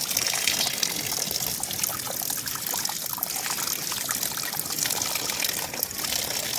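Water trickling and splashing steadily, with many small drops and ticks.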